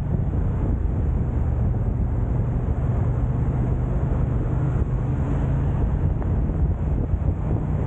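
Steady low rumble of a car being driven: engine and road noise picked up by a dashcam, with a faint steady hum underneath.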